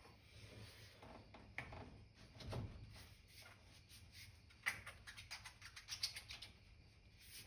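Faint, scattered clicks and light taps, with a quicker run of them from about five to six seconds in.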